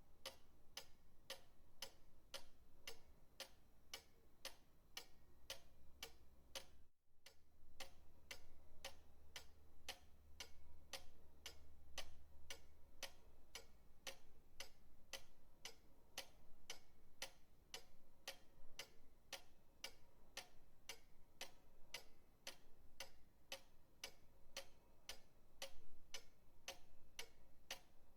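Pendulum clock ticking steadily and quietly, a little under two even ticks a second, with a brief break in the ticking about seven seconds in.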